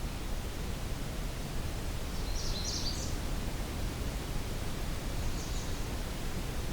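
A small songbird gives a brief, high cluster of a few quick notes about two and a half seconds in, and a fainter repeat near the end, over a steady low outdoor background rumble.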